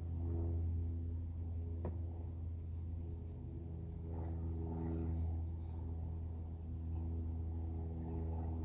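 A steady low hum with several faint steady tones above it, and a single sharp click about two seconds in.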